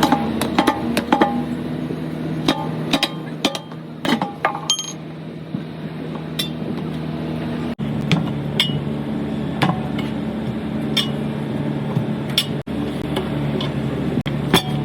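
Sharp metallic clinks and taps from tyre-repair tools, coming irregularly, some ringing briefly, over a steady low hum.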